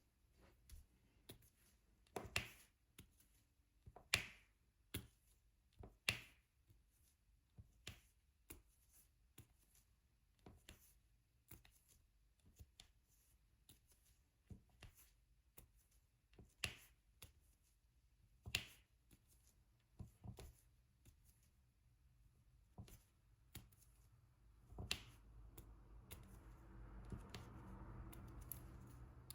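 Diamond painting pen tapping resin drills onto the sticky canvas: faint, irregular sharp clicks about one a second, a few of them louder. A soft rustling builds over the last few seconds.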